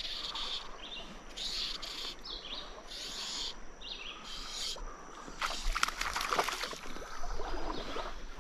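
A songbird singing short high phrases, repeated about once a second, over the steady rush of a shallow river riffle. About halfway through comes a louder stretch of splashing from wading.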